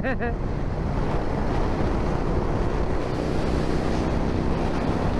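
Wind rushing over a helmet-mounted microphone on a moving Yamaha motorcycle, a steady loud roar of air, with the bike's engine droning faintly underneath.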